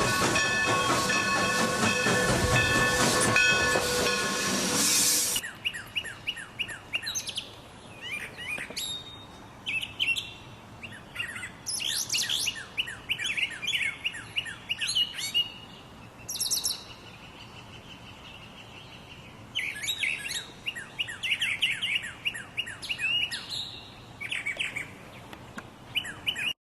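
About five seconds of a loud rushing noise with several steady tones held over it, which cuts off suddenly. Then birds chirp in quick, repeated calls, with a faint steady whistling tone partway through.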